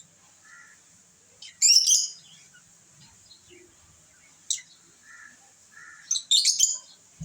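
Pet lovebirds chirping. A burst of sharp, high chirps comes about a second and a half in, a single short chirp past the middle, and another burst near the end, with softer calls in between.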